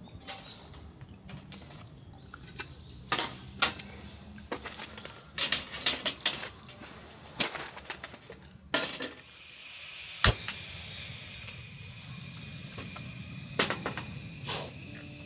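Scattered light clicks and knocks of camp gear being handled. About nine seconds in, a steady hiss begins and carries on, with one sharp click about a second after it starts.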